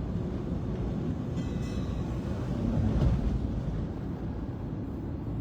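Car driving along, a steady low rumble of engine and road noise heard from inside the cabin, swelling slightly about three seconds in.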